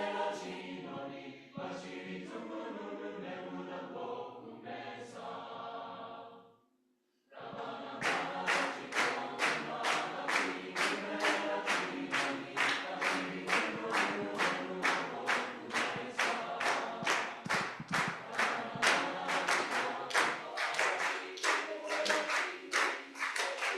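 Choir singing a cappella in parts. After a brief pause about seven seconds in, the singing resumes over steady hand clapping at about two to three claps a second.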